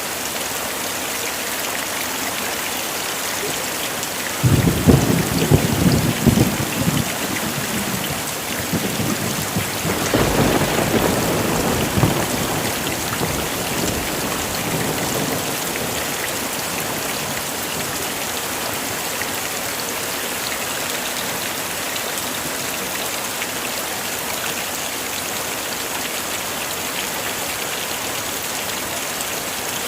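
Heavy rain falling steadily. About four and a half seconds in a sudden crack of thunder rumbles on for a couple of seconds, and a second rolling rumble of thunder follows around ten seconds in.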